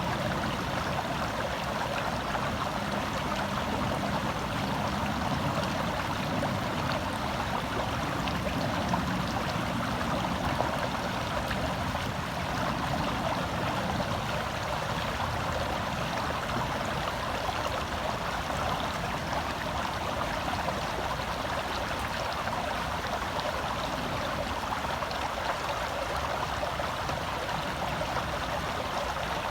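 Shallow forest stream flowing over rocks: a steady rushing and babbling of water.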